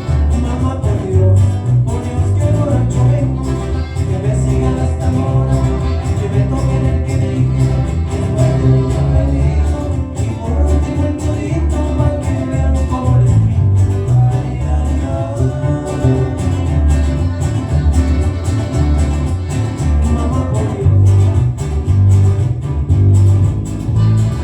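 Cumbia played by a band: a strong, steady bass and drum beat under guitar and other pitched instruments, with some singing.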